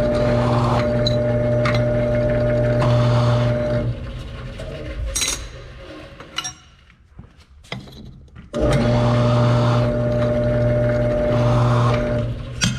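An electric bench deburring tool's motor runs with a steady hum while metal pieces are pressed against it, giving a grinding hiss that swells and fades. It runs about four seconds, stops, and starts again for about four seconds near the end, with a few clinks of parts being handled in between.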